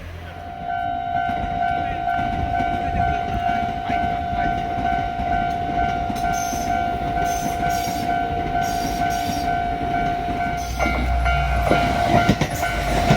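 Narrow-gauge electric train running, a steady high tone held for about ten seconds over the rumble of the train, then heavier rumble and rail clatter near the end.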